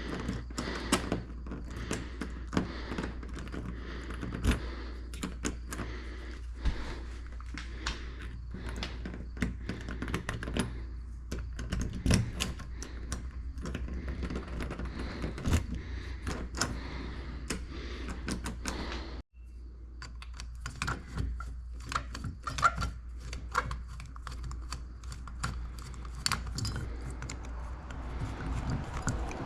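Irregular clatter of many small clicks and knocks from objects being handled, over a steady low hum, with a brief dropout about 19 seconds in.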